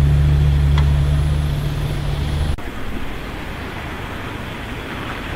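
A vehicle engine running with a steady low hum that cuts off abruptly about halfway through, giving way to the even rush of street traffic.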